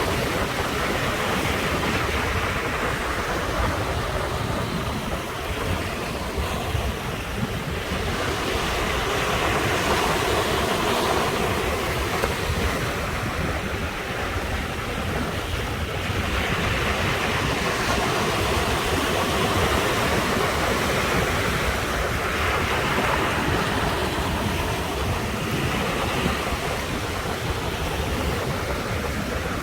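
Ocean waves breaking and washing on the shore, the surf swelling and easing every several seconds, with wind rumbling on the microphone underneath.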